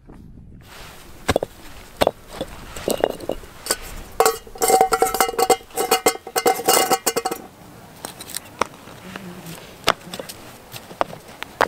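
Metal camping cookware and utensils clattering and clinking, with single knocks and then a dense run of ringing clanks from about four to seven and a half seconds in.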